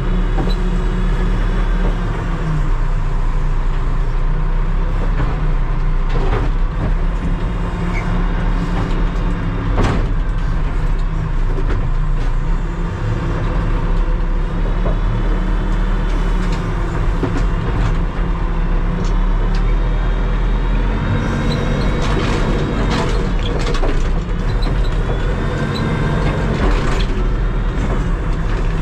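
Terex TLB-815 backhoe loader's diesel engine running steadily while it works, with occasional knocks and clanks. The engine's pitch shifts about twenty seconds in.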